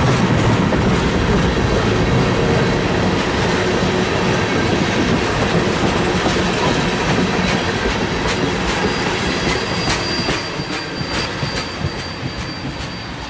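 Train cars rolling past on the track, wheels clicking over the rail and a thin high flange squeal coming in over the second half, the whole sound slowly fading as the train moves away.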